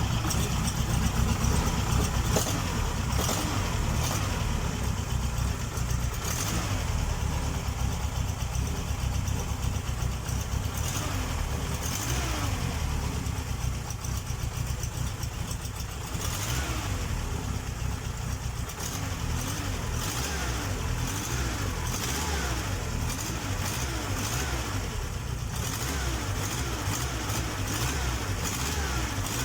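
Air-cooled MeMZ-968 V4 engine of a ZAZ-968A Zaporozhets running steadily at a low, even speed.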